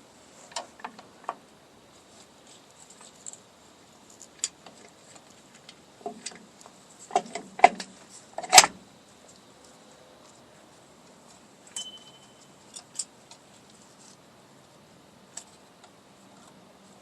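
Scattered light metallic clicks and clinks of drum brake parts and tools being handled, with a cluster of louder knocks about seven to nine seconds in.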